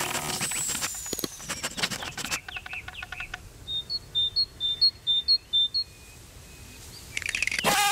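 Rapid ticking and clicking sound effects with a short falling whistle, then a bird chirping about nine times in quick two-pitched chirps. Near the end a loud buzz starts.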